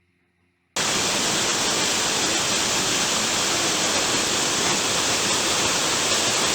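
Waterfall: falling water making a steady rushing noise. It cuts in abruptly, just under a second in, after a moment of silence.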